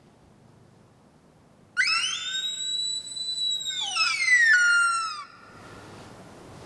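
Hawk locator call blown by a turkey hunter: one long, loud, shrill scream that rises, holds, then falls away, lasting about three and a half seconds. It is meant to startle a tom into gobbling and give away where he is.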